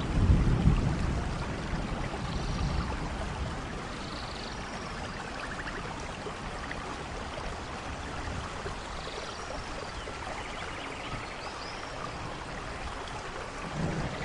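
Steady rain falling in a rainforest, with a low rumble of thunder in the first two seconds that then fades. A few faint short chirps and pulsing trills of small animals sound over the rain.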